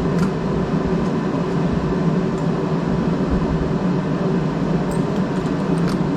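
Reciprocating saw running steadily as it cuts into the mobile home floor, its blade mounted upside down so the saw lies flat against the floor for a flush cut. The saw stops just after the end.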